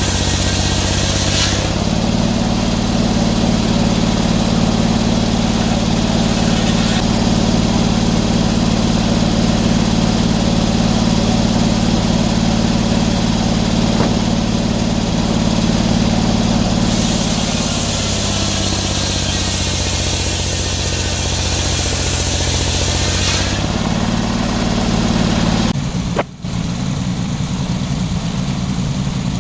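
Engine running steadily, its speed stepping up about two seconds in, dropping back after the middle and rising again near the end, with a brief cut-out shortly before the end.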